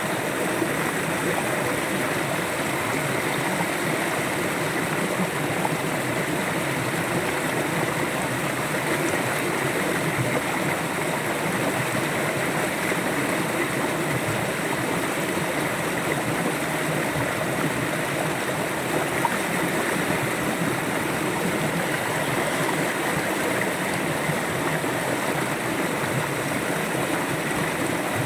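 River water flowing steadily over rocks, a continuous gurgling rush that stays at an even level.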